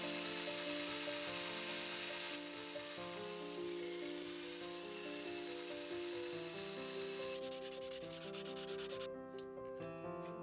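Sanding by hand: a steady rasping rub that eases after about two seconds, then turns into quick back-and-forth strokes near the end. Background music with a melody plays underneath.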